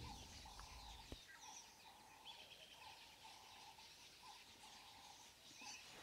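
Very faint bird calls, a run of short repeated chirps, over near silence.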